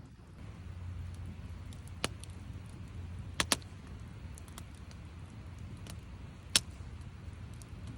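Campfire crackling: a few sharp pops, one about two seconds in, a close pair around three and a half seconds, and the loudest near seven seconds, over a steady low rumble.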